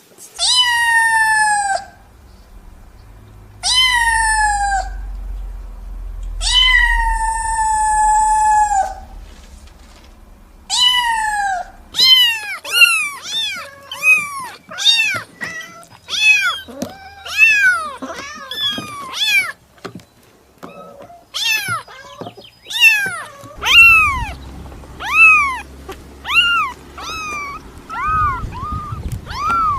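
Cat meowing: four long, drawn-out meows in the first twelve seconds, then a quick run of short meows, each rising and falling in pitch, about two a second.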